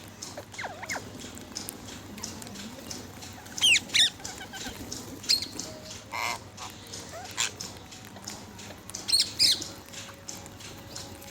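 Parrot squawking: a scattered series of short, shrill calls, with loud pairs of calls about four and nine seconds in.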